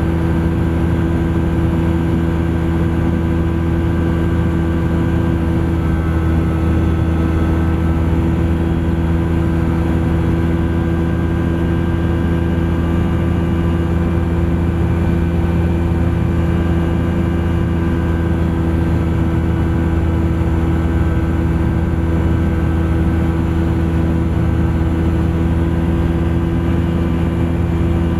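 Thruster ultralight aircraft's engine and propeller running at a steady, unchanging drone in flight.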